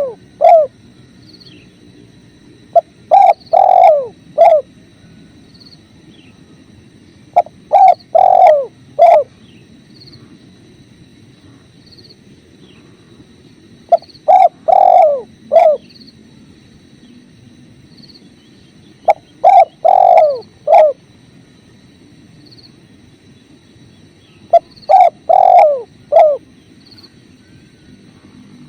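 Spotted dove (tekukur) cooing: a phrase of three or four falling coos repeated about every five seconds, over a steady low rush of flowing river water.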